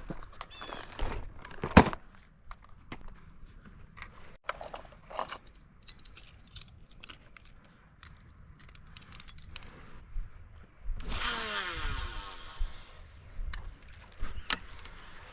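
Light clinking and rattling, like gear or keys being handled, over a steady high-pitched hum. About eleven seconds in comes a louder rushing sound, about a second and a half long, whose pitch falls.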